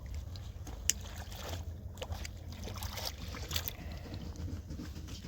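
Steady low rumble of wind on the microphone, with scattered light rustles and clicks and one sharper click about a second in.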